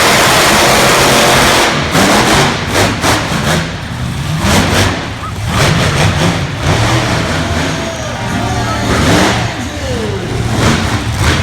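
Monster truck engine revving hard, a full-throttle roar for the first second or so, then surging up and down. Shouting voices are heard over it.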